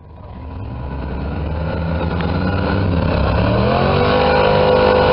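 A truck engine running and revving, its pitch climbing about three seconds in and then holding. It grows steadily louder.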